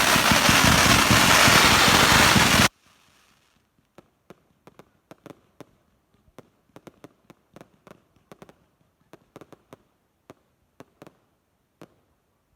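Fireworks going off in a loud, dense crackle that cuts off abruptly about two and a half seconds in, followed by scattered faint pops and crackles.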